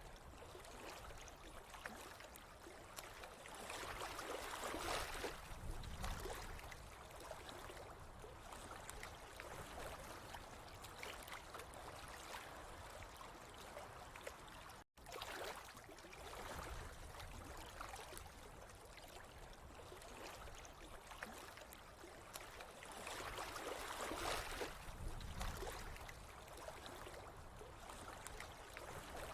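Water running and trickling steadily, swelling louder twice, with a brief dropout about halfway through.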